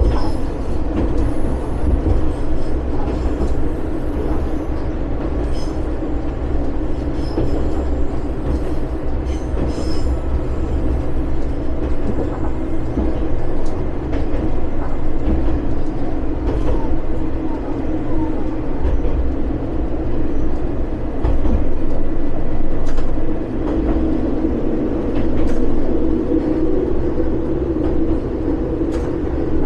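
One-car diesel railcar of the Watarase Keikoku Railway running along the line: a steady engine and wheel rumble with scattered short clicks from the track.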